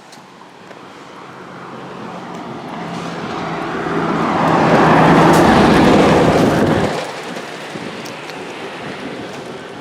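A passing vehicle, its noise swelling steadily, peaking, then falling away sharply about seven seconds in.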